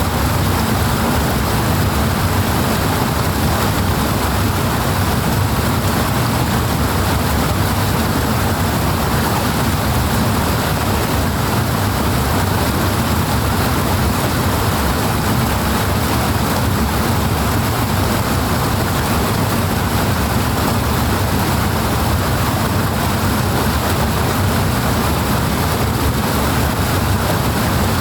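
Powerful rushing water, a steady, full roar with a deep low rumble and no breaks or changes.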